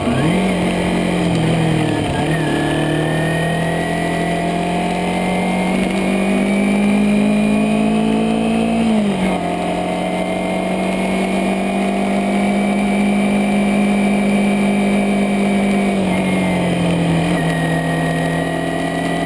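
Kawasaki Ninja 250R's parallel-twin engine running under way, its note climbing slowly and falling back several times: a brief dip about two seconds in, a sharp drop about nine seconds in, and a gradual fall near the end.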